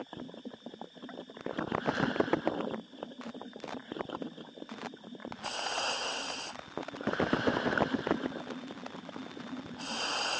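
A commercial diver breathing through a helmet demand valve, heard over the diver's communications line: a hissing inhale about a second long twice, each followed by a few seconds of crackling, bubbling exhaust as the breath vents into the water.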